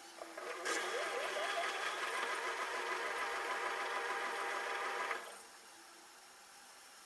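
LG F10A8HDS5 front-loading washing machine working through its cotton wash cycle. A steady machine noise starts about a second in and cuts off suddenly about five seconds in, leaving a quieter hum.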